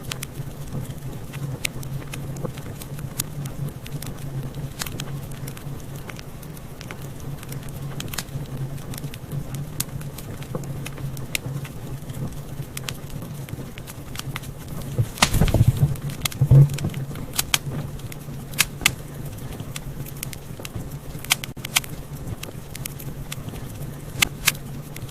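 Wood fire crackling in a fireplace: irregular sharp pops and snaps over a steady low rumble, with a louder burst of pops and a soft thump about two-thirds of the way through.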